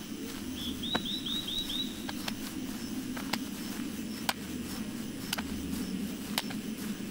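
A bird gives a quick run of five chirps about a second in, over steady low outdoor background noise. Sharp clicks come about once a second.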